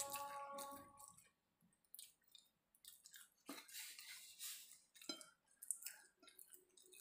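A person chewing a mouthful of tempe and chicken liver close to the microphone: soft, intermittent wet mouth clicks and smacks with quiet gaps between them.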